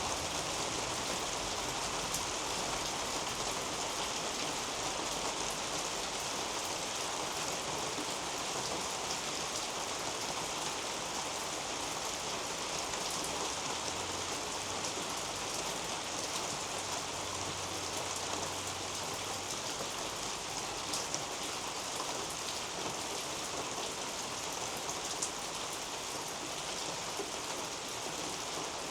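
Steady rain falling through a garden canopy onto leaves and soil, with individual drops ticking now and then.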